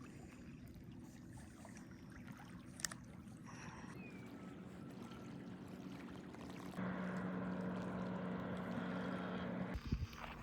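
A boat's engine droning steadily at a low pitch, growing louder about two-thirds of the way through, then cutting off near the end, followed by a few low thumps.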